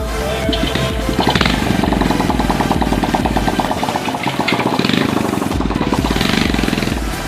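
Honda Supra X 125 motorcycle's single-cylinder engine running, its firing pulses setting in about a second in, over background music with a steady beat.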